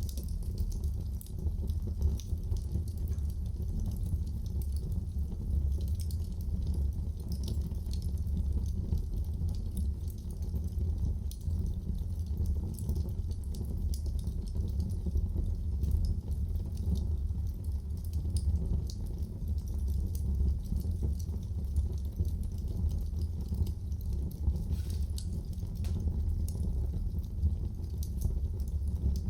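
Wood fire burning in a fireplace: a steady low rumble with many small crackles and pops scattered throughout.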